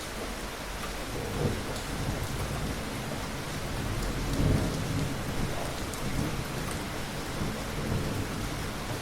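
Steady rain hiss with low rumbling thunder that swells and fades several times, loudest about halfway through.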